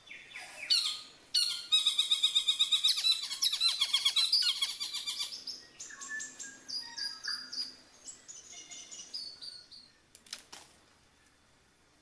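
Forest songbirds calling. A falling whistle comes first, then a loud, rapid chatter of repeated notes, about eight or nine a second, for roughly four seconds. Quieter, scattered whistled phrases follow, and there is a brief rustle about ten seconds in.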